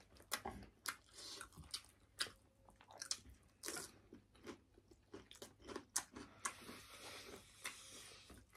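Chewing and mouth sounds of people eating: many short, irregular clicks and smacks, quiet.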